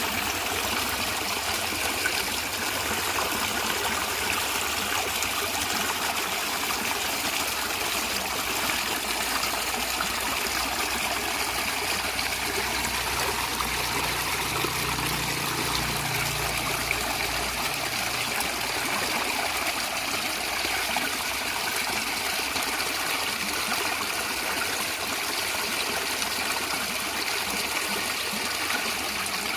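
A natural stream running and gurgling: a steady, even rush of water, with a faint low rumble for a few seconds midway.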